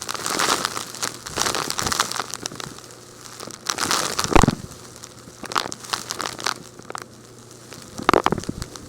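Crumbly, rock-like material being crushed and broken up, with irregular crunching and crackling bursts; the loudest crunches come about four seconds in and again near the end.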